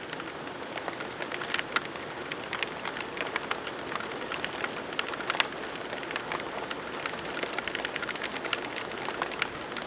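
Rain falling steadily, with many sharp, irregular drop hits close to the microphone.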